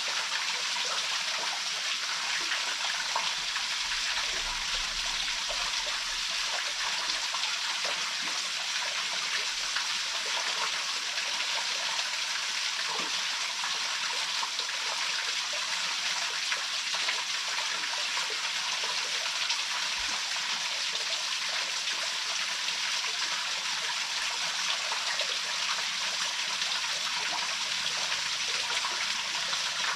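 Waterfall pouring steadily into its pool: an even, continuous rush of falling water.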